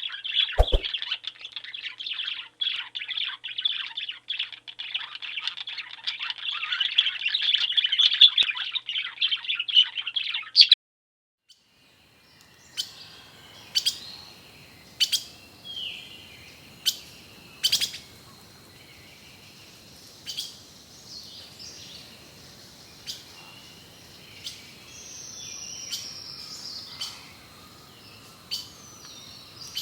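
A dense chorus of many small birds chirping together, which cuts off suddenly about ten seconds in. After a brief silence, single sharp bird chirps sound every second or two over a faint hiss, with a falling whistled call about two-thirds of the way through.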